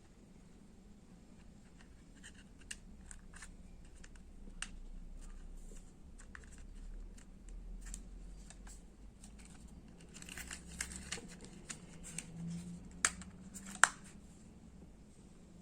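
Hands handling small plastic parts and packaging: scattered light clicks and taps, a stretch of crinkling about two-thirds of the way in, and two sharp louder clicks near the end.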